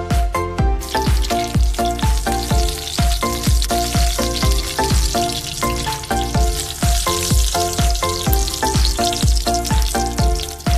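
Breaded chicken patties shallow-frying in oil in a pan: a steady sizzle that starts about a second in. Background music with a steady beat plays throughout.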